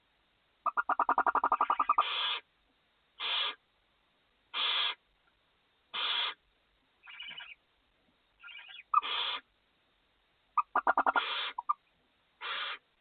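Barn owls in a nest box: a rapid chittering train near the start and another about eleven seconds in, between short rasping hiss calls repeated about every second and a half, typical of begging barn owl nestlings at a feeding.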